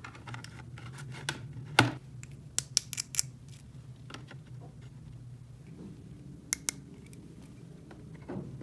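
Irregular sharp clicks and taps over a low steady hum, the loudest click about two seconds in.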